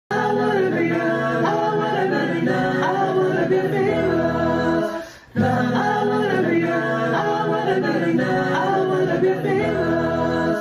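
A short a cappella, choir-like vocal passage, played twice through with a brief gap about five seconds in.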